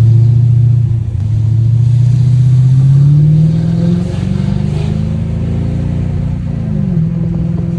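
Mercedes-Benz CL500's 5.0-litre V8 running straight-piped with no exhaust system, pulling hard with its pitch rising for about three and a half seconds. The throttle then eases off, the engine holds a steadier note, and its pitch drops near the end.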